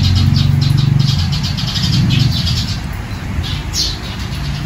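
Birds chirping in quick runs of short high notes, then a few single downward chirps near the end. Under them a low mechanical hum fades out about halfway through.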